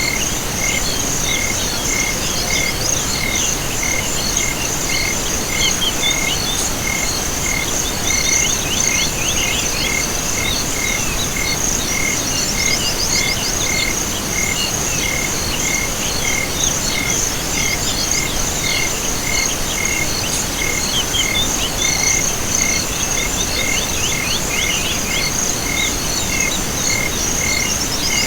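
Chorus of crickets and frogs: a continuous high trill and a short chirp repeating evenly about every 0.7 s. Bursts of rapid rattling calls come and go every few seconds over a steady soft hiss.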